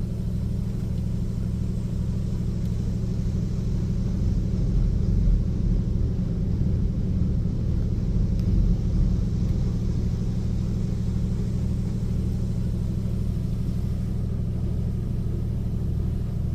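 Automatic car wash during its clear coat protectant pass: a steady low rumble and hum of the wash machinery and spray, swelling briefly about five and nine seconds in.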